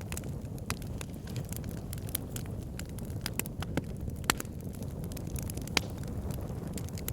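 Wood fire burning in a fireplace: a steady low rumble of flames with sharp, irregular crackles and pops from the logs, a few louder pops about four and six seconds in.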